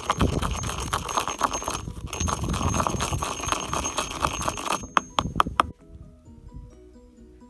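A hard stone grinding earth pigment to powder in a mortar: a gritty scraping rasp full of small knocks. Just before five seconds in it ends in three or four sharp clacks of stone on the mortar, leaving light background music.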